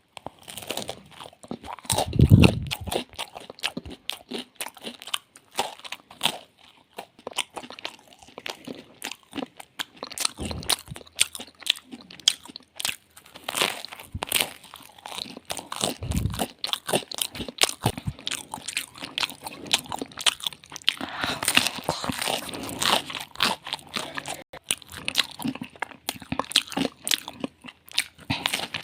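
A person biting and chewing pizza, with frequent crisp crunches throughout. A few dull low thumps come in, the loudest about two seconds in.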